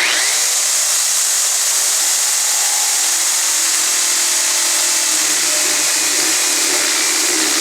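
Power drill with a spade bit running fast and boring a hole into wood, with a steady motor whine. A lower note joins about five seconds in as the bit bites deeper.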